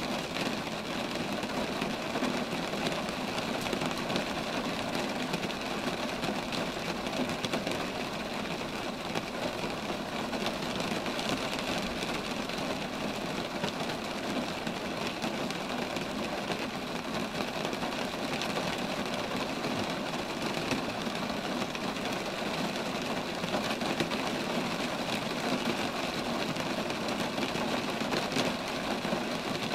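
Steady rain falling on roadside trees, a continuous even hiss with no breaks.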